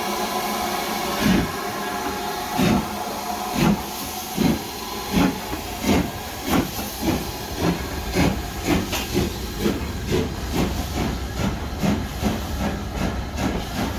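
Steam locomotive of the Jacobite 'Harry Potter' train chuffing over a steady hiss of steam. Its exhaust beats quicken steadily, from about one every second and a half to two or three a second, as it gathers speed.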